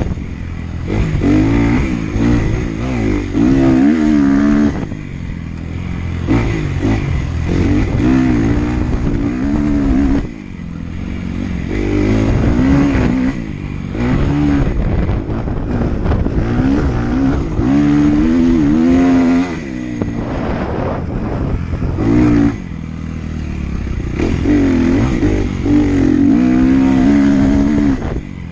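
Motocross dirt bike engine revving hard, its pitch climbing and falling as it is ridden around a sand track. The throttle is chopped off briefly about five times.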